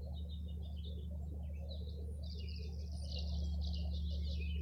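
Tree swallows twittering in quick high chirps that grow busier about three seconds in, over a steady low hum.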